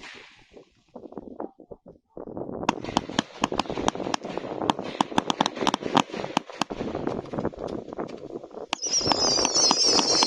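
Firework show box (compound cake) firing: after a brief lull with a few scattered pops, a dense run of sharp cracks and pops starts about two seconds in. Near the end it grows louder as a high, wavering whistle joins the crackling.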